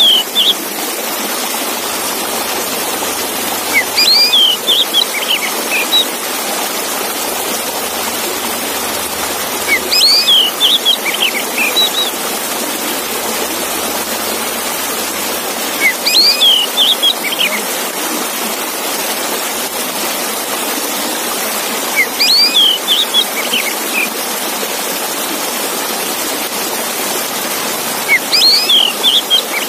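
Oriental magpie-robin (kacer) song: a short burst of clear, sliding whistled notes, repeated about every six seconds, over a steady rushing water-like noise.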